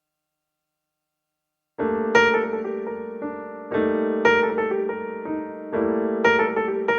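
Background piano music: a soft, slow piano piece with a new chord struck about every two seconds, starting about two seconds in after silence.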